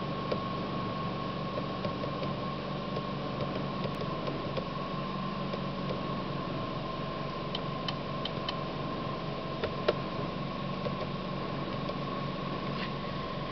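Opel Insignia 1.6 Turbo four-cylinder petrol engine idling steadily, with a steady high whine over it and scattered light clicks, the sharpest about ten seconds in.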